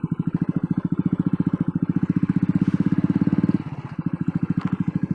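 Royal Enfield Bullet's single-cylinder engine running under way, a steady fast beat of exhaust pulses. It grows louder, eases off briefly a little past the middle as the throttle is closed, then picks up again.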